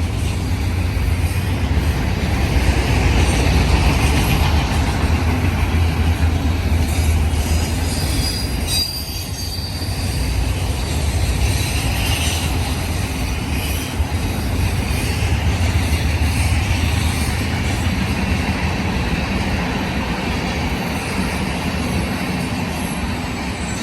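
Freight cars of a BNSF manifest train rolling past on the main line: a steady rumble and clatter of steel wheels on rail, with faint wheel squeal at times.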